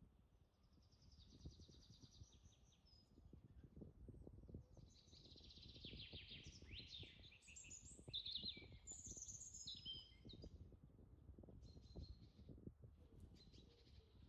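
Faint birdsong: several bouts of rapid trilled chirps and short whistled calls, busiest in the middle, over a low rumble.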